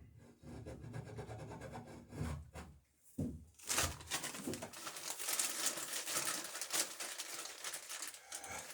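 Rubbing and scraping on wood, dull at first and then a busier, crackly rasp from about three and a half seconds in.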